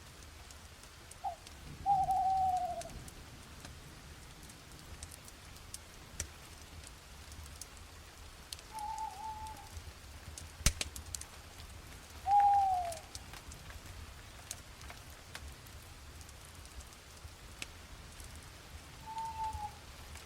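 A bird calling five times, each call a short single tone about a second long, some falling in pitch, over a soft steady background. Scattered campfire crackles run through it, with one sharp snap about halfway.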